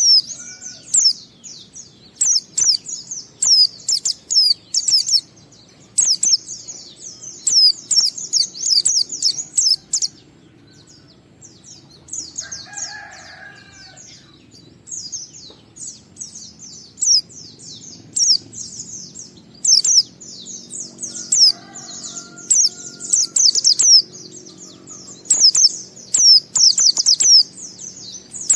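White-eye (pleci) singing a fast, high twittering song in long runs of quick sweeping notes, broken by short pauses, the continuous 'ngalas' song style that keepers play to set other white-eyes singing.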